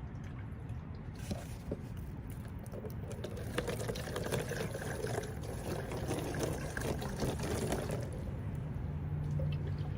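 Rainwater being poured into a plastic jar, a steady pouring and filling sound that grows a little louder midway.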